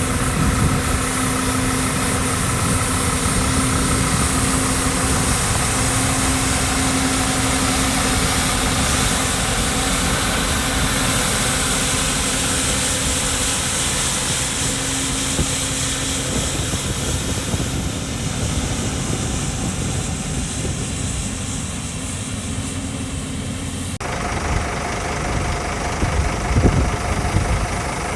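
Scania refuse truck's diesel engine idling steadily. The sound changes abruptly near the end, followed by a brief louder stretch.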